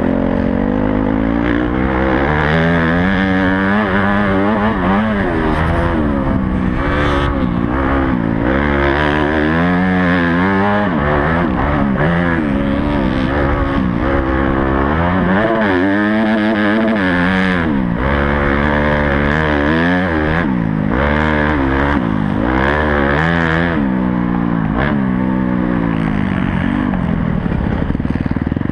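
Honda CRF250 motocross bike's four-stroke single-cylinder engine revving up and down over and over as the rider accelerates, shifts and backs off around the track, with a few short knocks.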